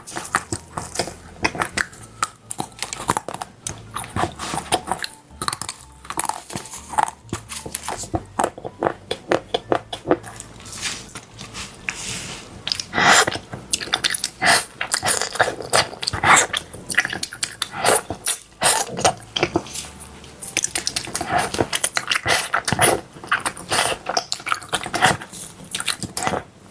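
Close-miked crunching and chewing of crispy chocolate-coated food: bite after bite of sharp, irregular crackles, with louder clusters of crunches about halfway through and again near the end.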